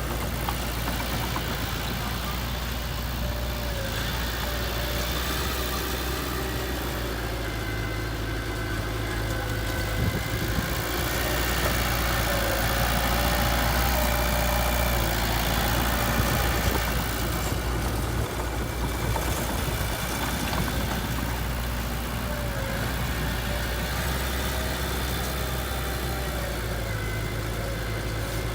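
Heavy diesel engine running steadily at low revs, getting a little louder for several seconds around the middle.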